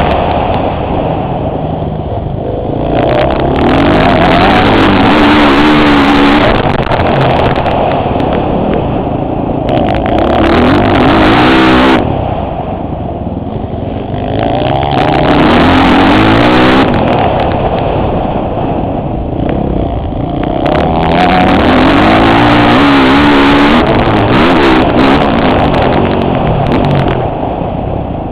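Motocross bike engine heard from a helmet-mounted camera, revving hard in long loud stretches and easing off in between, its pitch climbing and dropping as the throttle opens and closes.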